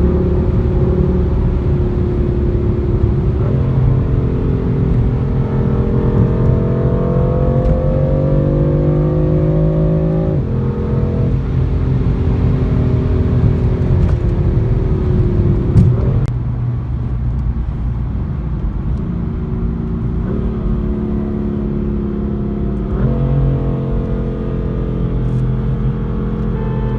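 A car engine running under load through the gears. Its pitch climbs steadily, then jumps or drops abruptly at several gear changes.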